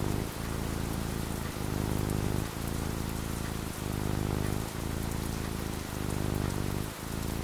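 Steady rain falling, with a low, soft pitched sound underneath that breaks and restarts about once a second.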